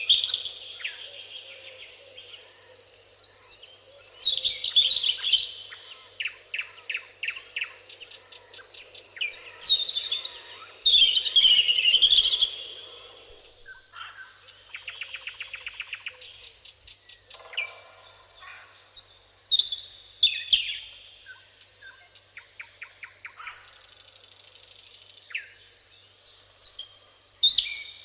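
Several songbirds singing in turn, with whistled phrases and fast even trills, over a steady high-pitched insect buzz. A low background hiss stops about halfway through.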